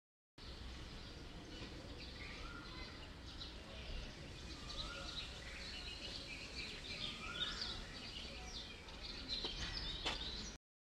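Birds chirping again and again over a steady low rumble of outdoor background noise, with one sharp click near the end.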